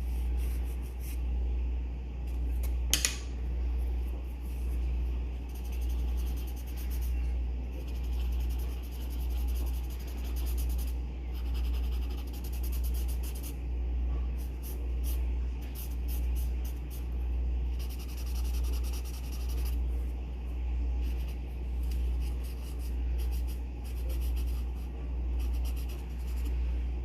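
Pencil scratching on paper in runs of quick strokes, over a steady low hum that swells and fades about once a second. A single sharp click comes about three seconds in.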